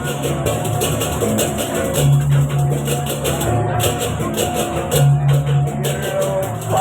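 Balinese baleganjur gamelan playing: fast, dense clashing of hand cymbals over drums and bronze metallophones, with a deep gong tone sounding about every three seconds.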